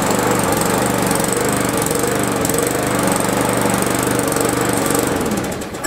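Small gas engine of a piece of lawn equipment running after a cold start, revved a little, then shutting off near the end.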